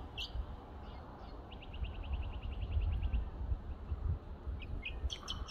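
Small birds calling: a few short chirps, then a quick trill of about nine notes a second lasting about a second and a half in the middle, then more chirps near the end, over a low rumble of wind on the microphone.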